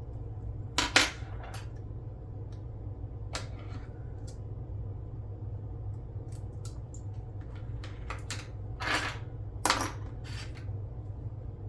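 Small metal hobby tools clicking and tapping against a hard work surface: a scattering of light, sharp clicks with a short scrape, the loudest about a second in and again near the end, over a steady low hum.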